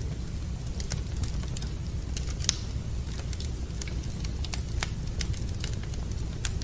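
Wood fire crackling in a fireplace, with scattered sharp pops over a steady low rumble; the loudest pop comes about two and a half seconds in.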